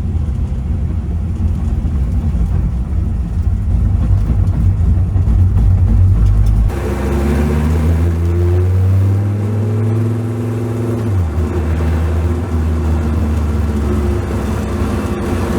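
Dodge Viper V10 race engine heard from the cabin. A low, rough rumble for the first six or seven seconds changes to a clearer engine note that rises slowly as the car pulls, then drops in pitch about eleven seconds in and runs on steadily.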